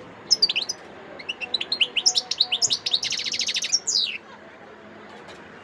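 Wild-caught European goldfinch singing: a run of quick twittering notes with a fast buzzy trill about three seconds in. The song breaks off for about a second and a half near the end.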